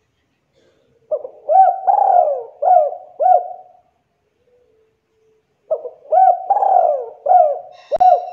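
Spotted dove cooing: two phrases of about five notes each, separated by a pause of about two seconds. A short click sounds near the end.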